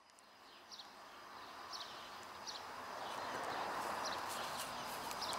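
Outdoor ambience fading in: a steady hiss of background noise, with a bird giving short, high, falling chirps over and over.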